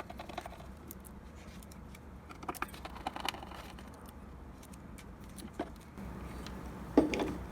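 Scattered small clicks and taps of parts being handled and unfastened inside an opened espresso machine, with a louder clunk near the end.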